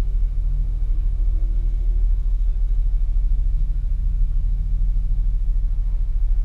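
Audi S4's engine idling with a steady low rumble, heard from inside the cabin while the car stands still.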